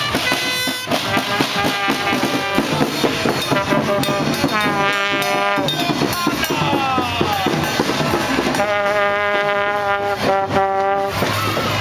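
Brass music led by trombones and trumpets, with trombone slides up and down in pitch about a third of the way through.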